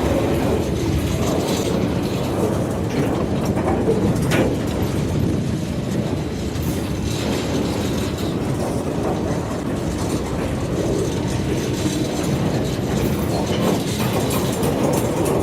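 Train rolling past on the narrow-gauge line, a steady rumble of wheels on rail with scattered clacks as the wheels cross rail joints.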